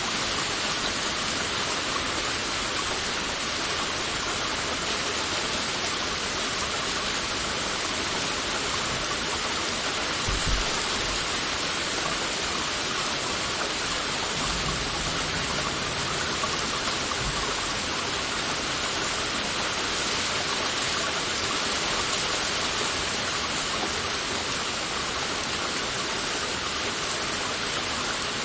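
Heavy rain falling steadily in an even, unbroken hiss, with a brief low thump about ten seconds in.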